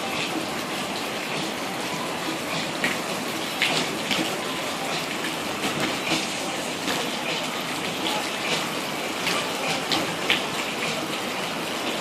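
Steady rush of pool water, with a few short splashes or clicks scattered through it.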